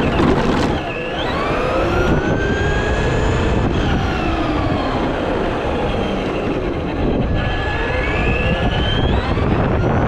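Electric RC truck's motor whining, its pitch rising and falling repeatedly as the truck speeds up and slows, over a steady rushing noise of tyres and wind.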